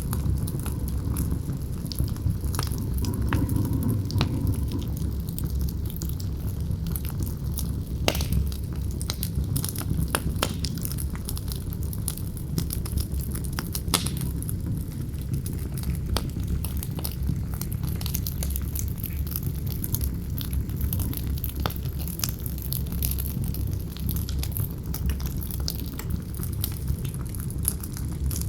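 Campfire crackling and popping, with frequent sharp snaps over a steady low rush of wind.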